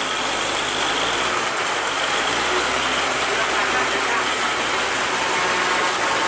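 Heavy truck's diesel engine running steadily under an even hiss of rain.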